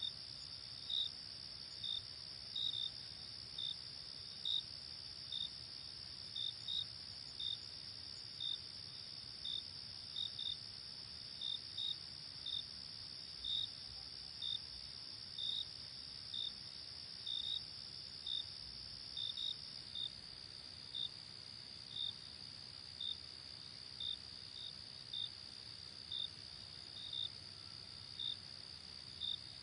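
Night insect chorus: crickets chirping in short high chirps, about one to two a second, over a steady high-pitched trill.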